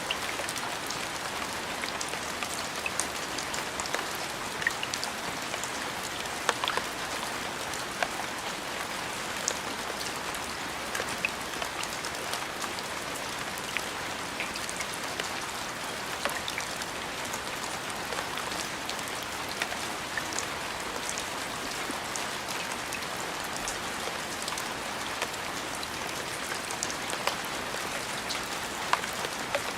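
Steady rain falling, an even hiss scattered with the clicks of individual drops striking a surface.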